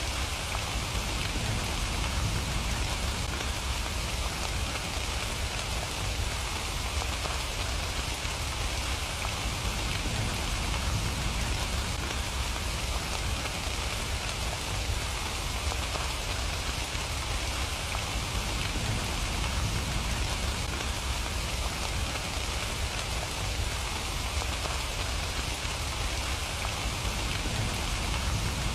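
Steady rain falling, a continuous even patter with a low rumble underneath.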